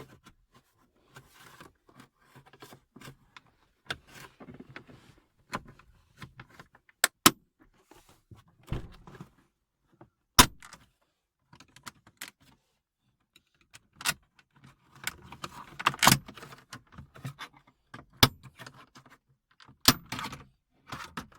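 Plastic dashboard trim being pried off by hand, with rustling and scraping and a series of about eight sharp snaps as its retaining clips pop out one by one.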